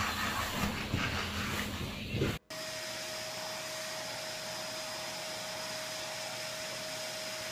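A brief stretch of uneven noise ends abruptly about two and a half seconds in. After it, an upright vacuum cleaner runs steadily, its hose wand held against a cat's fur, with a constant whine over the even rush of air.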